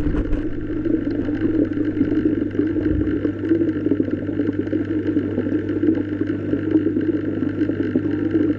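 Steady underwater ambience: a constant low drone and hum over a faint rushing hiss, unchanging throughout.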